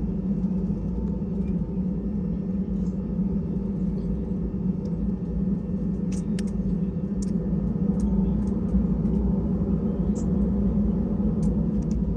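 Steady low hum inside an Airbus A320 cabin, with scattered light clicks and knocks.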